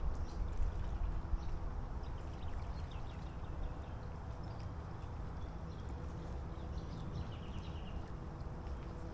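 Birds chirping in short quick runs, one falling run of rapid chirps near the end, over a steady low rumble.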